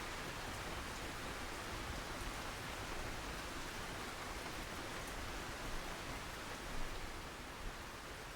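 Steady rain falling, an even hiss with a few brief, louder taps in the second half.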